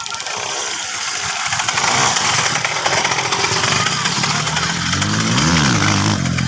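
Motocross dirt bike engines running. About five seconds in, one engine revs up and drops back.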